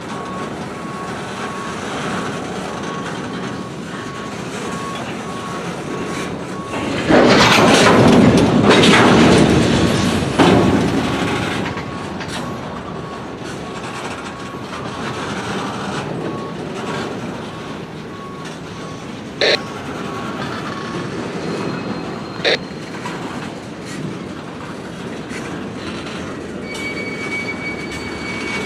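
Freight train rolling past, its cars rumbling and clattering on the rails, with a louder stretch of a few seconds about a quarter of the way in. A high beep repeats about twice a second through the first two-thirds, and two short sharp sounds come later.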